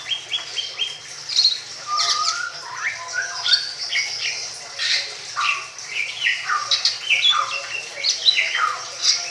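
Songbird singing a fast, varied song of short whistled and chattering notes, many of them sliding downward, with barely a pause between phrases.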